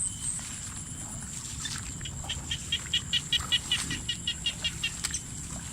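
Night-time animal calls outdoors: a steady high-pitched drone runs throughout, and about two seconds in a rapid run of short chirps begins, roughly five a second, lasting under three seconds.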